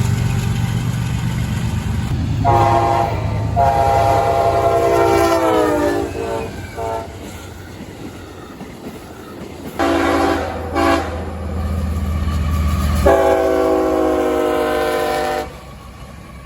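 Diesel locomotive air horn sounding a series of blasts: a short one, a longer one that sags in pitch, two quick short ones, then a long one that cuts off near the end. This is typical of a train sounding for a grade crossing. A low steady locomotive rumble runs underneath and drops away about two-thirds of the way in.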